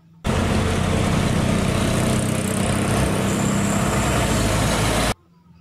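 A truck engine running steadily with a low hum and road noise. It lasts about five seconds, starting and stopping abruptly like a dubbed-in vehicle sound effect.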